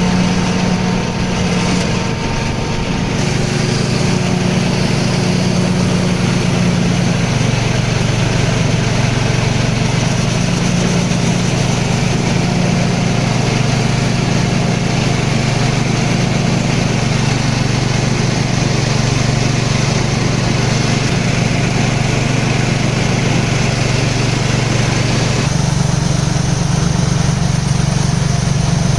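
Small engine running steadily under load, driving a Kanryu Skeleton A-1 rice husking and milling machine, with a change in tone about 25 seconds in.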